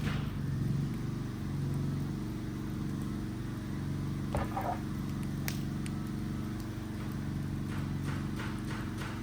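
An engine running with a steady low hum, with a few sharp pops from the burning wood fire.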